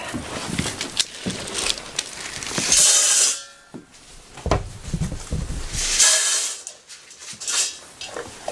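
Goats moving about: hoof knocks and shuffling, with two short hissing bursts, one about three seconds in and one about six seconds in.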